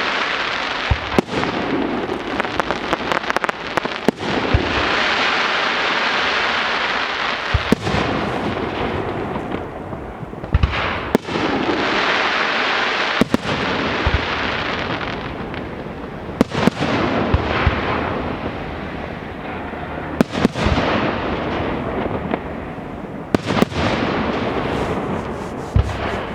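Fireworks display: a continuous dense crackle from many bursting stars, broken every second or two by sharp bangs of shells going off.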